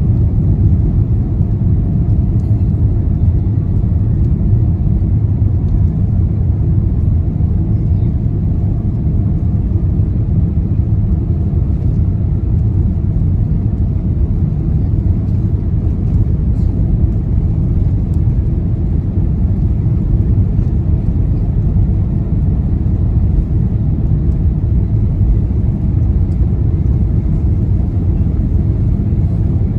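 Steady low rumble in the cabin of a Boeing 787-8 Dreamliner during its takeoff, the engines at takeoff thrust.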